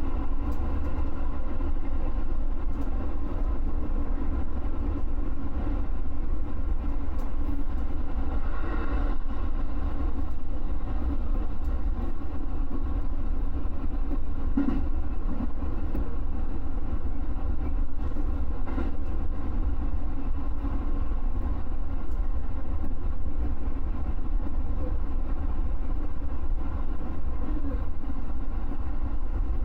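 Electric commuter train running at speed, heard from inside at the front of the train: a steady low rumble with a few faint knocks.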